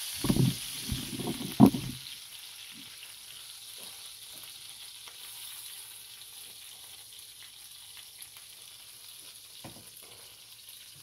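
Chicken pieces sizzling in hot oil in a cast-iron skillet, a steady hiss. In the first two seconds a few loud knocks of metal tongs and pan are heard, the loudest just before the two-second mark. After that the sizzle goes on more quietly.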